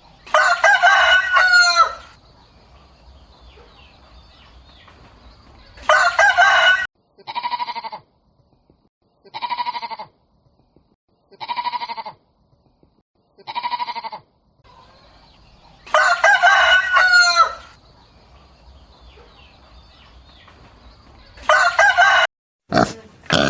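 Rooster crowing: four long, loud crows, with a run of four shorter calls that fall in pitch, about two seconds apart, in between.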